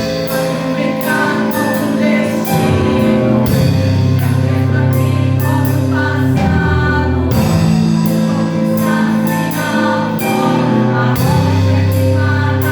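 Live gospel worship music: a praise song sung over a band, with steady bass notes and regular drum hits.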